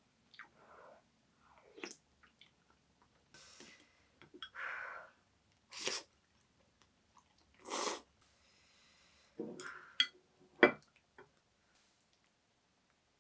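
Close-up eating sounds: a person chewing mouthfuls of jjamppong noodles and cream shrimp, in irregular short bursts. A few sharp clicks, the loudest sounds, come about ten seconds in, as chopsticks knock against the dishes.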